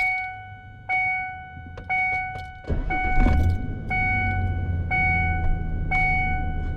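2002 Ford Ranger's dashboard warning chime ringing about once a second, seven times. About three seconds in the engine cranks and starts, then idles steadily under the chimes.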